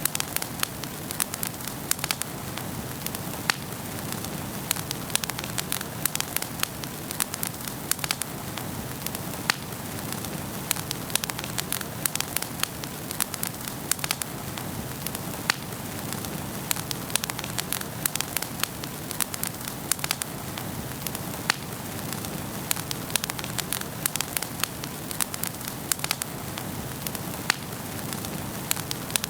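Wood fire burning in a fireplace: a steady hiss of flames with frequent sharp, irregular crackles and pops from the burning logs.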